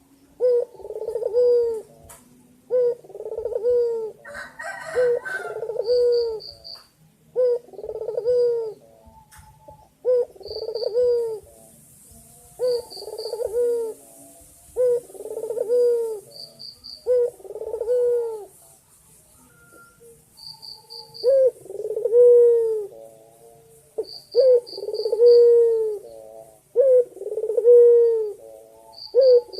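Male white Barbary dove (puter putih) cooing repeatedly to call a female: a steady run of low coos, each about a second long, about one every second and a half. Faint quick high chirps in groups of three or four come between the coos.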